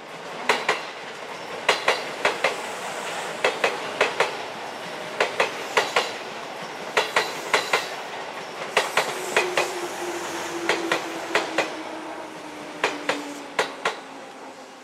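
Seibu 4000 series electric train rolling past, its wheels clacking over rail joints in quick pairs, bogie after bogie, over a steady rolling noise. A faint low tone slowly falls in pitch in the second half.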